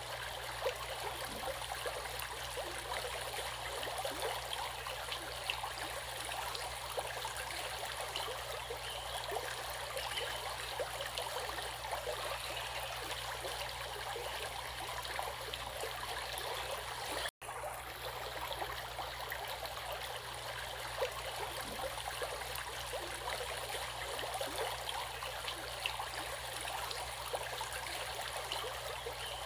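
Running water: a steady rush with many small splashes, cut off for a moment about two-thirds of the way through.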